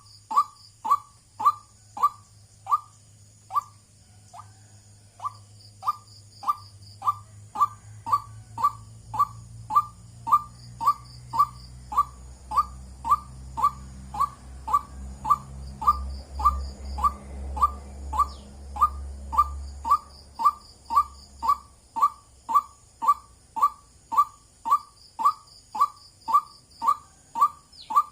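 White-breasted waterhen calling a monotonous series of short 'wak' notes, about two a second, with a brief pause about four seconds in.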